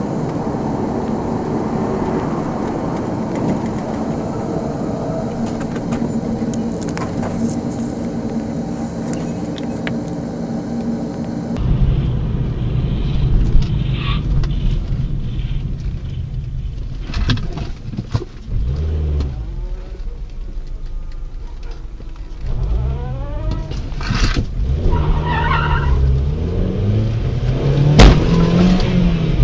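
Engine and road noise inside moving cars, as picked up by dashcams. First comes a steady drone with a held engine tone. About twelve seconds in it changes abruptly to a louder, lower rumble whose engine pitch rises and falls several times, with a few sharp knocks.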